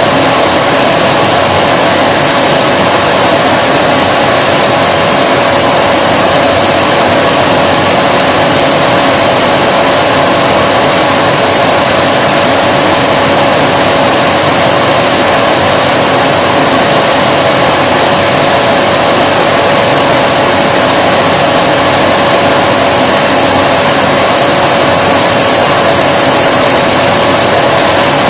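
Vacuum cleaner motor running continuously: a loud, unchanging rush of air with a steady whine in it.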